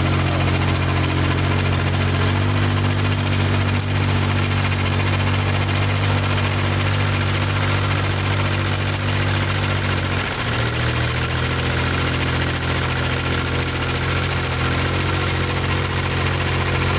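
Vintage tractor engine running steadily, its note dipping and settling at a slightly different pitch about ten seconds in.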